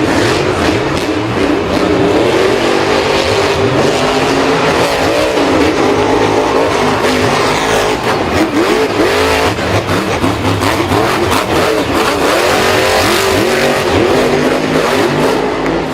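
Racing vehicle engines revving continuously, their pitch repeatedly climbing and dropping.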